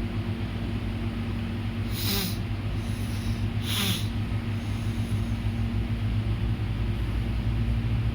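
Steady low rumble of an idling engine with a constant hum, broken twice by a short hiss about two seconds apart.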